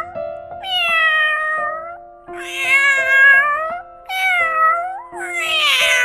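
Kitten meowing again and again: four drawn-out meows, each falling in pitch, over background music with held notes.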